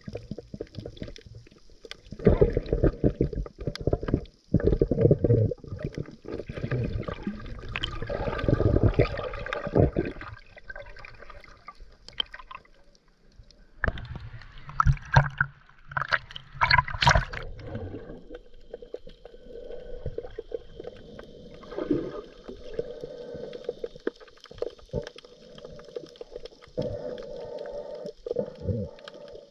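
Scuba diver's exhaled bubbles gurgling and rushing underwater in long bursts, one from about two to ten seconds in and another around fifteen seconds, with smaller bursts later and quieter water noise between.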